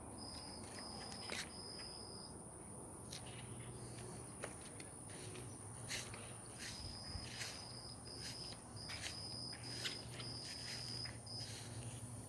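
Insects chirping: a steady, very high-pitched trill throughout, with runs of short, evenly repeated chirps, plus a few faint scattered clicks and rustles.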